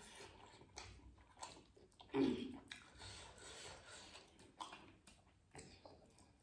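Close-up eating sounds of people chewing chicken momos (steamed dumplings), with soft wet smacks and clicks of mouths and fingers. A louder, brief mouth sound comes about two seconds in.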